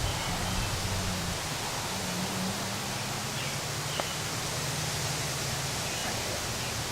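Steady outdoor hiss of field ambience, with a few faint high chirps and one small sharp tick about four seconds in.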